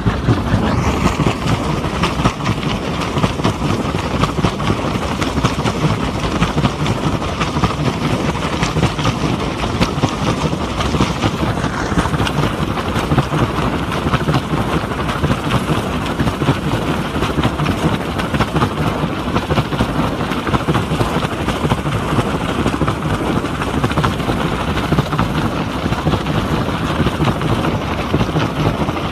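Helicopter running: steady, loud rotor and engine noise with a fast, even chop.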